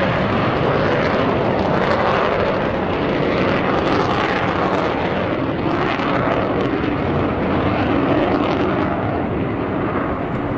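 Jet noise from an Avro Vulcan's four Rolls-Royce Bristol Olympus turbojets, a loud steady rushing sound that swells slightly as the bomber flies past.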